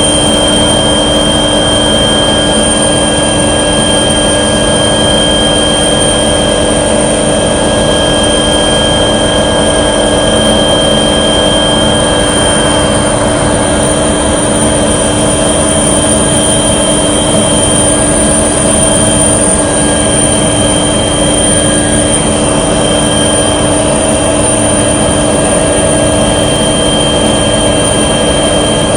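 Loud, steady drone of a light aircraft's engine and propeller heard from inside the cabin, a constant rushing noise with several steady whining tones over it.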